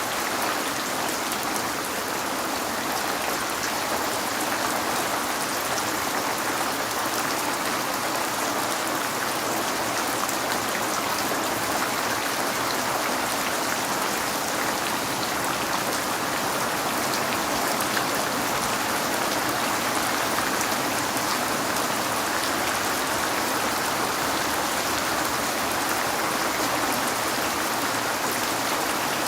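Steady rain falling, an even hiss with a fine patter of drops, spread mostly through the middle and upper pitches with little low rumble.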